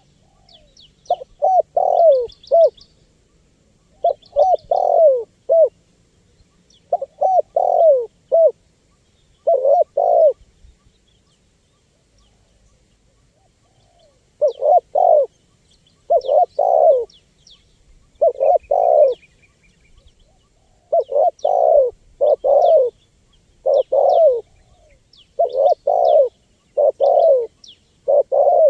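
Spotted dove (tekukur) cooing: loud repeated coo phrases of several notes, one after another, with a few seconds' pause near the middle. Faint high chirping of small birds runs behind.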